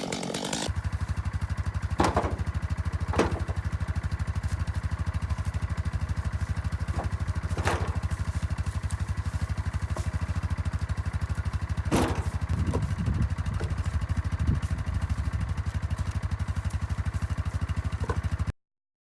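An engine running steadily with an even low pulsing, with a few sharp knocks and clanks over it. It cuts off abruptly near the end.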